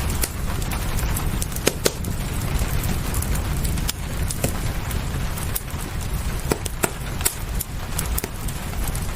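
Fireplace crackling: sharp irregular pops, some close together, over a steady low rumble and the even hiss of rain.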